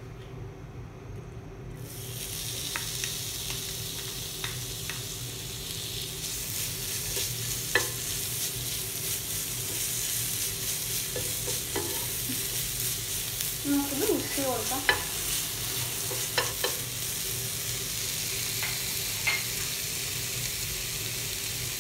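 Minced ginger and garlic sizzling in hot oil on a flat tawa pan, the sizzle starting about two seconds in, as they are fried until they brown. A wooden spoon stirs and scrapes them around the pan, with scattered short clicks and a brief cluster of them about two-thirds of the way through.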